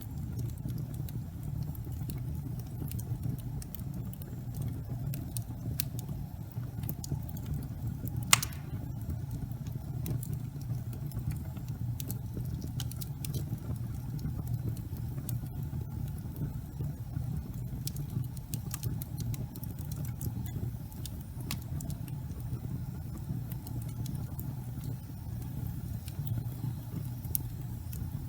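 Fire burning in a fireplace: a steady low rumble of flames with scattered small crackles and one louder pop about eight seconds in.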